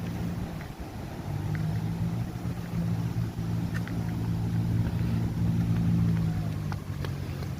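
A motor engine's steady low hum, coming up about a second in and easing off near the end.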